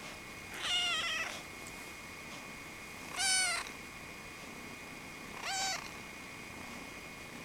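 A cat meowing three times, short high calls about two seconds apart.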